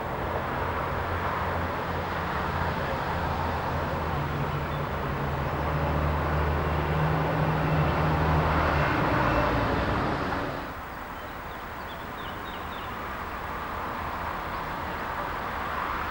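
Train passing on the line, a steady low hum over rumbling wheel and rail noise, growing to its loudest after about eight seconds and dropping away suddenly at about ten and a half seconds to a quieter background.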